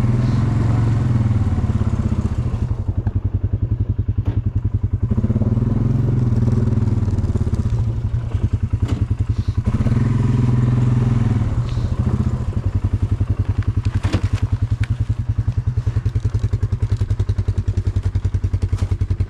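Vehicle engine running with a fast, even firing pulse, revving up briefly three times during the first twelve seconds, with a couple of knocks about fourteen seconds in.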